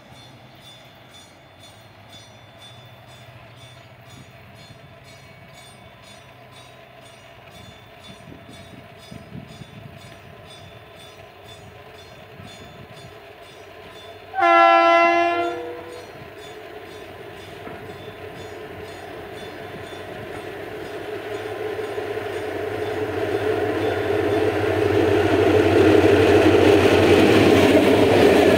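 TCDD DE 33000-class diesel-electric locomotive approaching with a freight train: its horn sounds one blast of about a second and a half about halfway through. After that the engine and wheel noise grow steadily louder as it draws near and passes.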